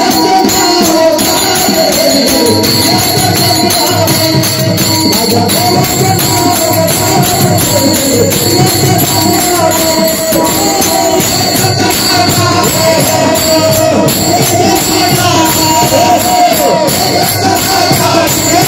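Folk devotional song with pakhawaj drumming: rapid, dense drum strokes under a wavering melody line, with jingling metal percussion, played steadily throughout.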